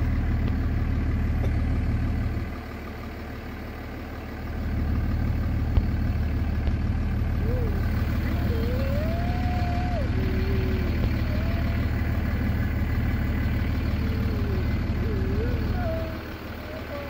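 Low, steady rumble of a car engine heard from inside the vehicle, dropping back for a couple of seconds early on and again near the end.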